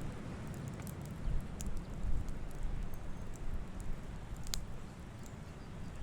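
Campfire burning: sharp wood crackles and pops at irregular moments, the strongest about four and a half seconds in, over a steady low rumble.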